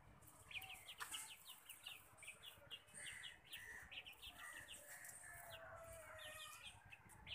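Faint bird calls: many short, high chirps in quick succession, repeating several times a second.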